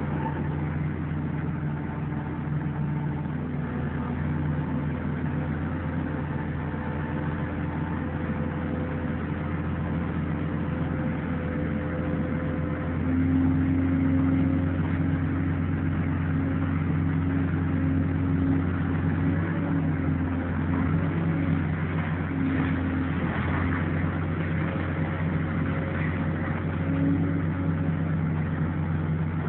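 Engine of heavy demolition machinery running steadily, with a steady hum that gets louder and higher from about 13 seconds in as it takes more load.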